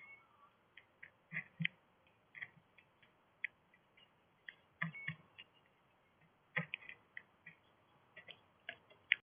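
Irregular light clicks and taps, about one to three a second, a few with a soft low thump, from birds pecking and moving about on a bird feeder.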